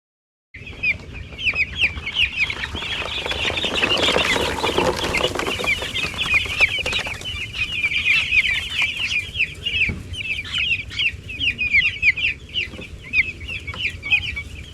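A crowded flock of six-day-old broiler chicks peeping continuously, many short high chirps overlapping, starting abruptly about half a second in. Around four to seven seconds in, a louder, broader noise rises under the peeping.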